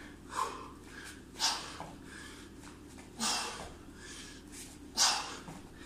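A man's sharp, forceful exhalations, four in a row at uneven intervals of one to two seconds, the hard breathing of exertion during a boxing workout.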